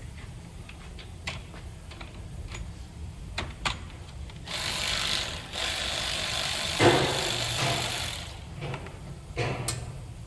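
Hand tools clicking and clanking during brake work. In the middle, a hissing mechanical noise runs for about four seconds, with a sharp knock near its end.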